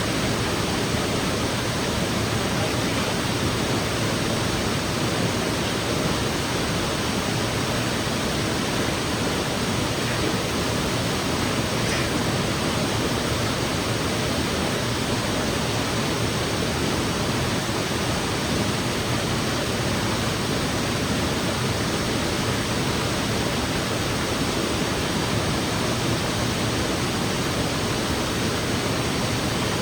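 Steady rush of a waterfall pouring into a gorge pool, close to the microphone, unchanging throughout.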